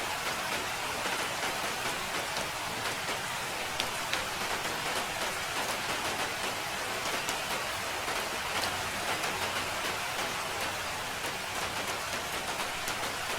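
Steady rainfall, a dense hiss of rain with many individual drops pattering on a surface.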